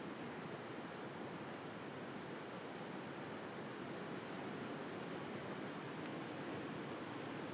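Steady wash of sea surf, with a few faint crackles from a wood bonfire.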